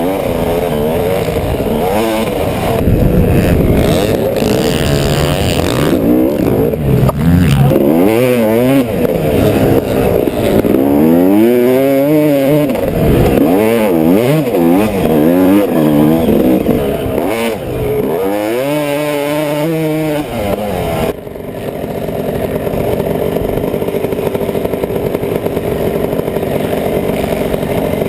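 Dirt bike engine revving up and down again and again as the throttle is opened and let off. About two-thirds of the way through it changes to a steadier, even drone.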